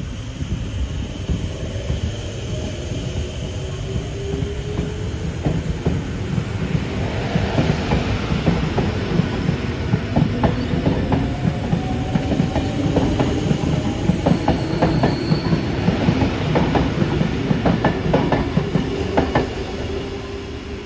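Sydney Trains double-deck electric suburban train running past, with a steady rumble and a slowly gliding motor hum. The wheels clack sharply and repeatedly over rail joints and points, thickest through the middle, then ease off near the end.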